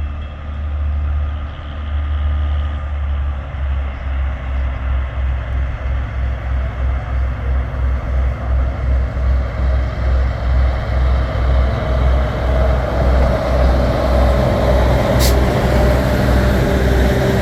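Railroad track motorcar (speeder) engine running with an even low beat that quickens and grows louder. A whine comes in over the last few seconds, and there is a sharp click about fifteen seconds in.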